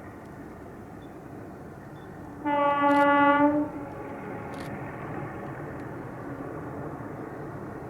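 Train locomotive horn sounding one blast of a little over a second, about two and a half seconds in, over the steady rumble of the running train.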